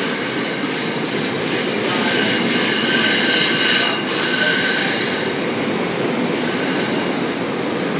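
SEPTA Regional Rail electric train of stainless-steel cars rolling along the platform, steel wheels on the rails making a steady running noise. High-pitched wheel squeal joins in about two seconds in and fades out around the middle.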